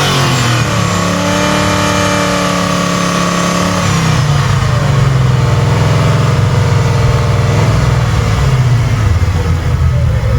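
Car engine held at steady high revs, then dropping back about four seconds in and running at a loud, rumbling idle.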